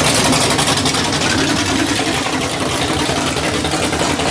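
A car engine idling steadily, with a rapid, even pulsing running through it.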